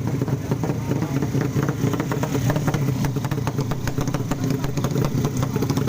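155cc-class drag-racing motorcycle engine running, a steady, rapid firing beat with no clear rise or fall in revs.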